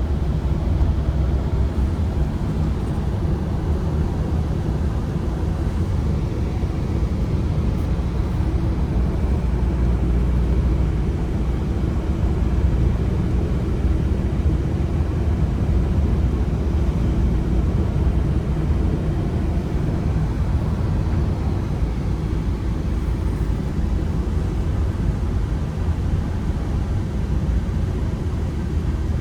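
Ford Transit Connect van's petrol engine and tyres running steadily on the road while driving, a low steady rumble heard from inside the cabin.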